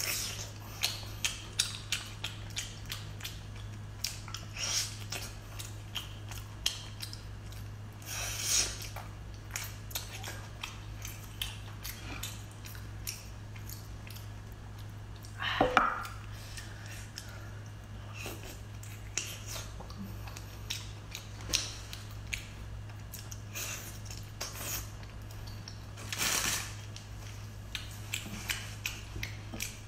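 Close-miked eating of a large piece of salmon: wet chewing, biting and lip-smacking, heard as many short sharp mouth clicks with a few louder bursts, over a steady low hum.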